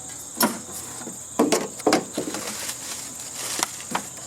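A few sharp knocks and clatters as hand tools work loose the housing of a heating and air-conditioning unit, over a steady high chirring of insects.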